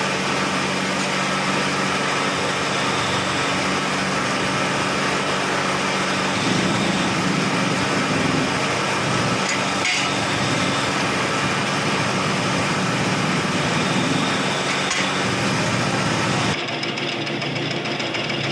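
Machine-shop power equipment running steadily with a low motor hum and a hiss. About six seconds in the low part turns rougher, and near the end the hiss drops away.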